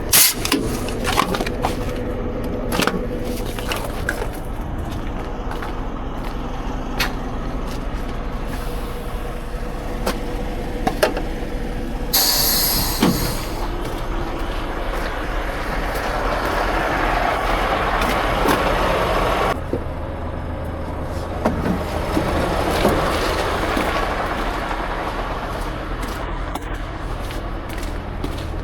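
Heavy truck sounds: a run of clicks and knocks, a short sharp hiss of released air about twelve seconds in, a louder stretch of noise that cuts off suddenly, then a steady low rumble.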